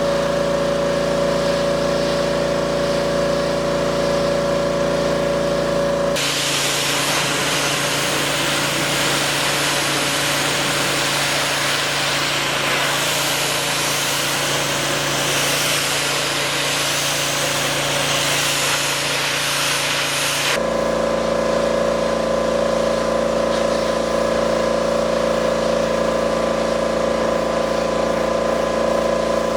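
Engine-driven pressure washer running steadily, with a stretch in the middle where the hiss of the water spray takes over before the steady hum returns. The switches are abrupt.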